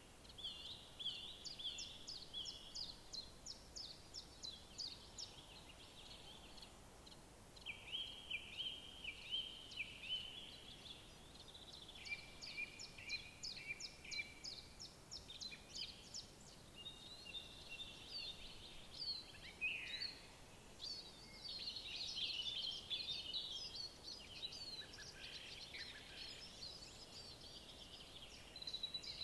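Several songbirds singing: repeated trilled phrases in runs of a few seconds, with more birds calling over one another in the last third, over a faint steady background hiss.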